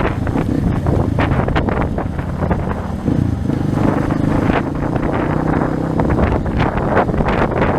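230 cc trail motorcycle engine running under way at a fairly steady speed, with heavy wind buffeting on the microphone.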